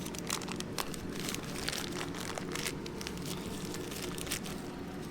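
Crinkling and rustling of parts packaging, with scattered light clicks as boxed engine bearings are handled, over a steady low hum.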